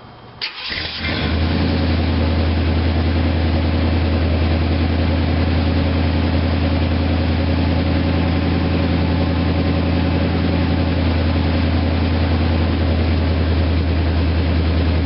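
1988 Chevrolet Caprice Classic's carbureted 5.0 V8 idling steadily on a cold morning, still on its fast idle. A click about half a second in, then the engine sound comes up within a second and holds steady.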